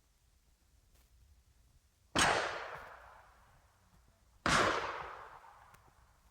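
Two sharp bangs a little over two seconds apart, each dying away over about a second.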